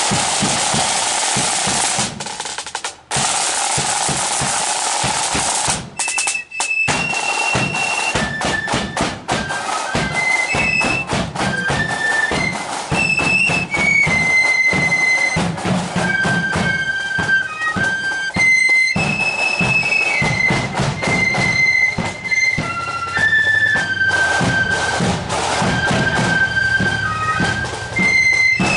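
Marching flute band: a long snare drum roll for about the first six seconds, then the flutes come in with a high melody over snare and bass drums.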